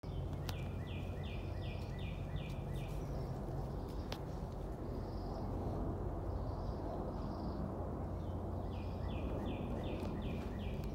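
A songbird singing two runs of about six quick, clear whistled notes, the first about a second in and the second near the end, with softer chirps between them. Under it a steady low rumble, and two sharp clicks early on.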